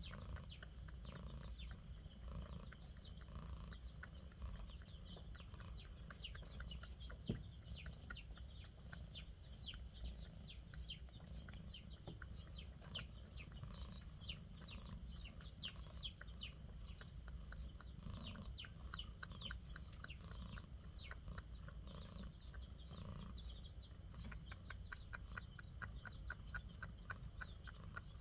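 Birds chirping over and over in short falling chirps, with chickens clucking now and then, over a low steady rumble. A single sharp knock about seven seconds in.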